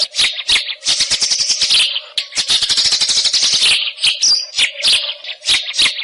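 White-rumped shama singing a fast, chattering song of rapid trills and clicks mixed with short clear whistles, with only brief breaks.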